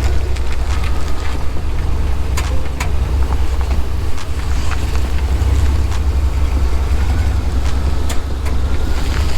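Engine of a 1987 Chevrolet square-body pickup with throttle body injection running steadily, a continuous low rumble.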